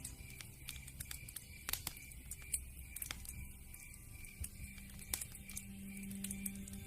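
Wood fire crackling, with irregular sharp pops and snaps from the burning logs, over a quiet sustained tone.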